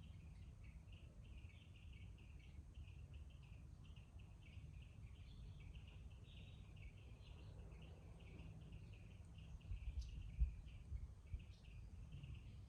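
Faint bird chatter: many small birds giving short, overlapping chirps without a break, over a low background rumble. A few low bumps come about ten seconds in.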